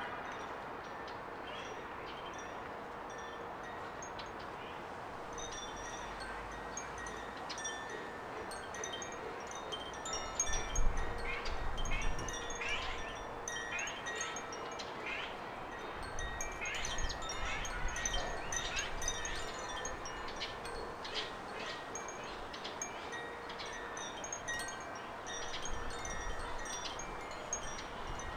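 Small garden birds chirping in quick, short, sharp calls, busiest through the middle, over several steady ringing tones that hold throughout. A few low rumbles come in partway through.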